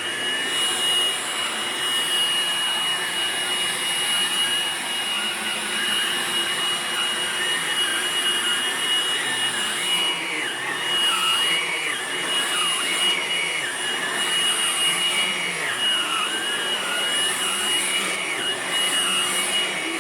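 Hoover Blade+ vacuum cleaner running steadily: a constant high whine over motor and airflow noise, with a lower tone that keeps wavering up and down.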